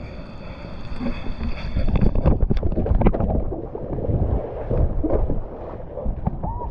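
Uneven rumble of moving water and wind buffeting the microphone, with a few sharp splash-like strokes in the middle. A thin, steady high tone runs under it and stops a little over two seconds in.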